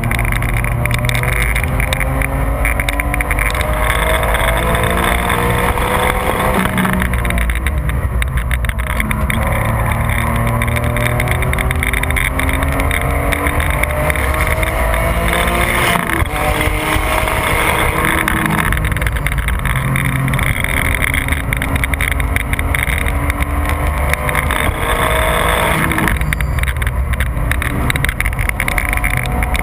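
Porsche 911 GT3 (996) flat-six engine under hard acceleration on a race track. Its pitch climbs repeatedly and falls back at each shift or braking point, under a steady rush of wind and tyre noise heard from inside the car.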